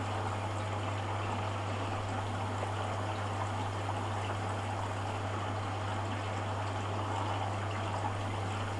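Hoover Dynamic washing machine in its rinse cycle, water running steadily into the drum, with a steady low hum beneath it.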